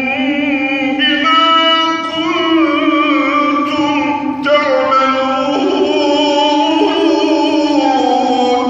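A male reciter chanting the Quran in melodic tajweed style, holding and ornamenting long notes, with a short break about halfway.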